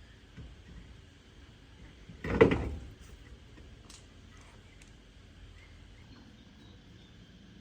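A single loud clunk about two seconds in, lasting about half a second.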